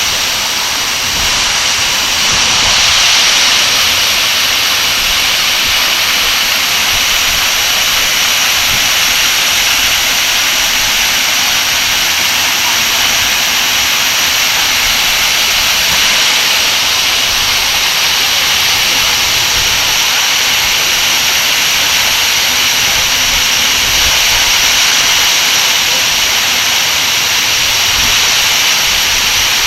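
Waterfall: a loud, steady rush of falling water that holds unchanged throughout.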